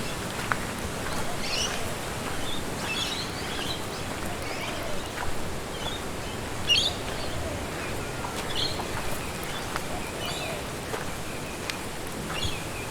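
Wind rushing through the trees, with small birds chirping here and there; one chirp a little past halfway is louder than the rest.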